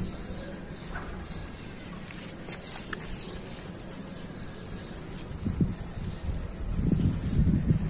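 Small birds chirping on and off over a low background rumble, with a few faint clicks; the low rumble swells near the end.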